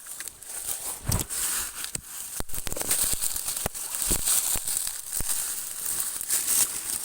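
Irregular rustling, crackling and snapping of leaves and twigs, over a steady high hiss.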